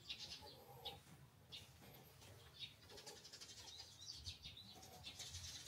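Small birds chirping faintly in short, repeated calls, busier near the end, over a faint low hum of the street.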